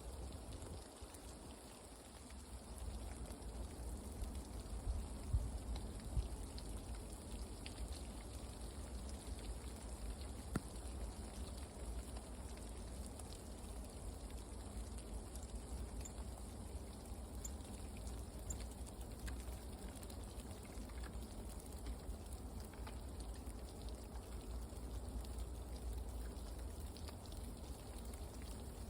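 Steady outdoor ambience: a low rumble with light, scattered ticks and patter like rain falling on leaves.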